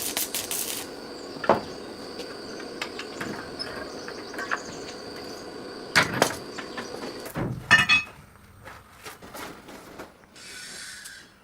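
Blacksmith workshop sounds: a few sharp knocks of tools over a steady running noise, which stops about three-quarters of the way through. A short hiss follows near the end.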